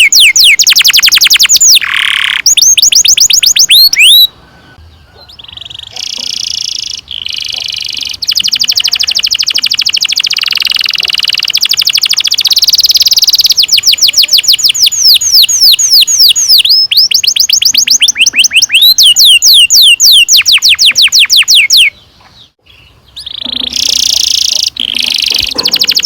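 Domestic canary singing a long rolling song: fast runs of high, falling notes repeated many times a second, broken by a couple of short pauses and warbled phrases.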